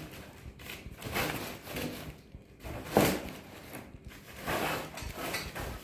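Unpacking noises: irregular rustling and scraping while packaging is handled, with a single sharp knock about three seconds in.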